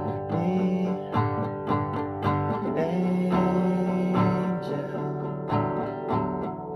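Acoustic guitar played on its own, strummed chords and picked notes ringing on, with one low note held for about a second and a half near the middle.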